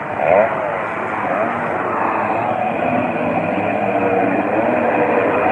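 Several 250cc motocross bikes running on the track during practice, their engines revving up and down as they pass. The loudest moment is a sharp rising rev about half a second in.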